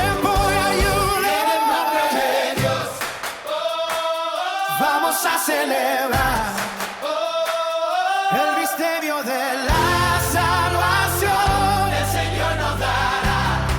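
Contemporary Christian worship song: layered voices singing over a backing band. The bass drops out for several seconds in the middle and comes back in about ten seconds in.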